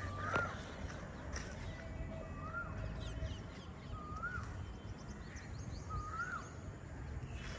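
A bird calling: a single whistled note that rises and then falls, repeated four times about two seconds apart, with fainter high chirping from other birds behind it.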